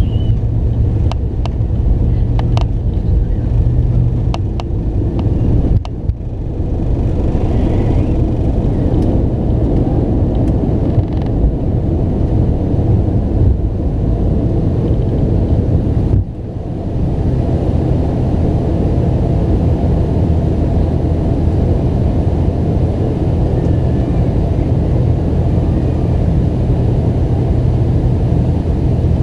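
Cabin noise inside a McDonnell Douglas MD-90 airliner: a steady low rumble from its tail-mounted engines and the airframe. There are a few light clicks or rattles in the first few seconds, and brief dips in level about six and sixteen seconds in.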